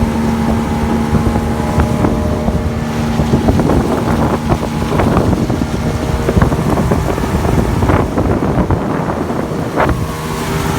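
Pontoon boat's outboard motor running steadily while towing, its hum fading about halfway through, under heavy wind buffeting the microphone and water splashing against the towed jon boat's hull.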